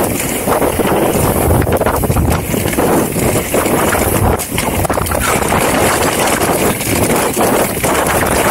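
Wind rushing over the camera microphone and a downhill mountain bike rolling over a rough dirt trail, with frequent clatters and knocks from the bike over bumps.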